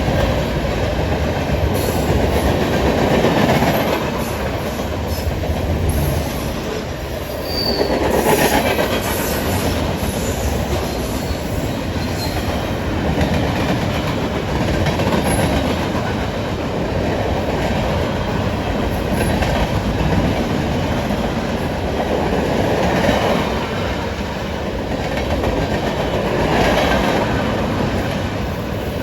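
A train rolling past at close range: a steady noise of wheels on rail that swells and eases every few seconds as the cars go by.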